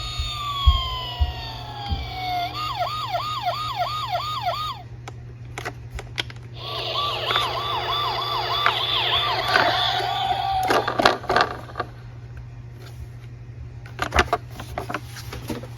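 Electronic police siren sound: a wail gliding slowly down, then a fast warbling yelp at about three to four cycles a second, which stops and comes back a few seconds later. Scattered sharp clicks and knocks fall in between, over a steady low hum.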